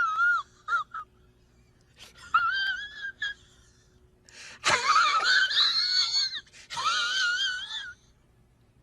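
High-pitched, wavering cry-like sound effect in several separate calls, the longest about two seconds, each warbling up and down in pitch.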